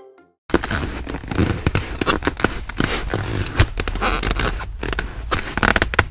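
Glass mixing bowl knocking and scraping against a wooden cutting board as dough is tipped out onto flour, with many sharp clicks and knocks starting about half a second in.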